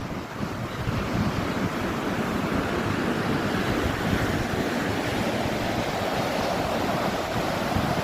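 Sea surf washing on the shore, a steady rush of waves, with wind buffeting the microphone.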